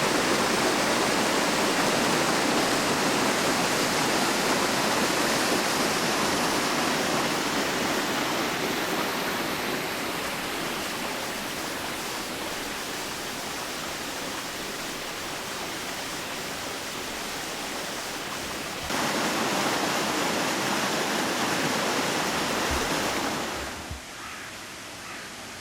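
Dondon Falls, a small waterfall, sending a steady rush of falling water. The rush eases off gradually, grows suddenly louder about nineteen seconds in, and falls away sharply near the end.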